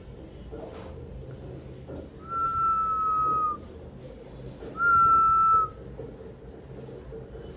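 A person whistling two long, steady notes, each sliding slightly down in pitch; the second is shorter and louder.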